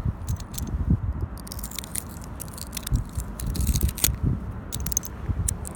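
Small stainless-looking metal tags clicking and scraping against each other as they are handled, a quick irregular run of sharp clicks over a low rumble.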